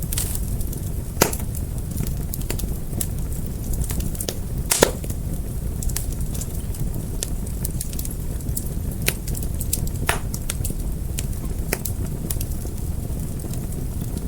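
Wood fire crackling: a steady low rumble of flames with scattered sharp pops and snaps, two louder pops about a second in and near the fifth second.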